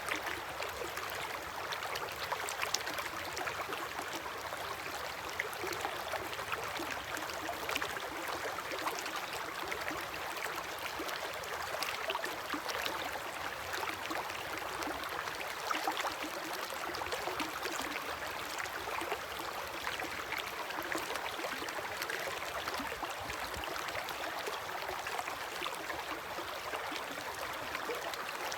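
River water flowing steadily against its bank, a continuous rushing with many small splashes and gurgles.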